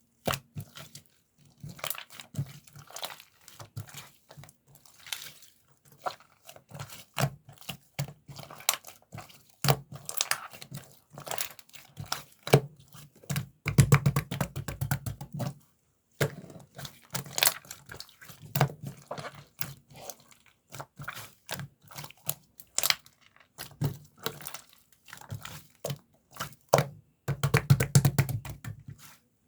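Hands squishing, folding and stretching a mint-chocolate slime, making dense runs of small sticky clicks and crackling pops, with a few louder, fuller squelches.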